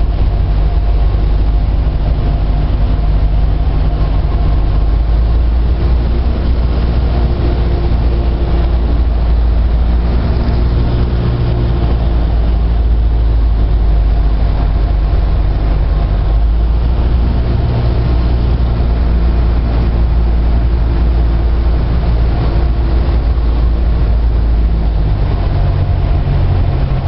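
Steady drone of a Cessna 172 Skyhawk's single piston engine and propeller heard inside the cabin, with small shifts in pitch a few times.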